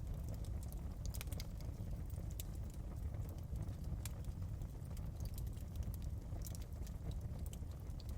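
Fireplace crackling: a steady low rumble of the fire with sharp crackles and pops at irregular moments.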